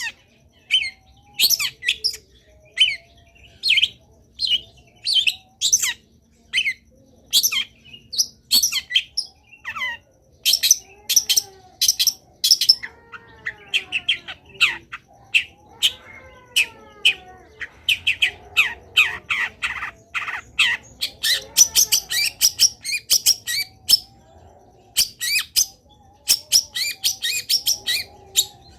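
Long-tailed shrike singing a loud, fast, varied song of short sharp chirps with sliding phrases, the bird's 'full isian' song packed with mimicked calls of other birds.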